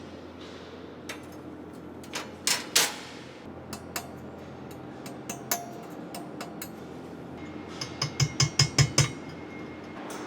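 Laser-cut metal fire-pit parts knocking and clinking as they are handled, with sharp ringing knocks about two and a half seconds in and a quick run of about six taps near the end.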